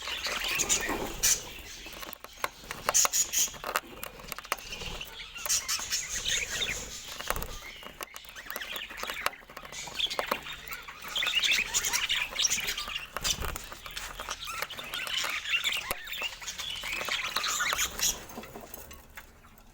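Budgerigars chattering and chirping, a fast warble of chirps and clicks in spells, dying away near the end.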